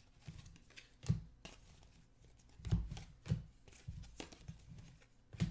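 Trading cards being handled by hand, with about five short, soft taps and slides as cards are flipped and set down.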